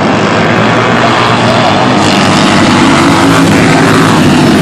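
Racing superbike engines at high revs, loud and steady.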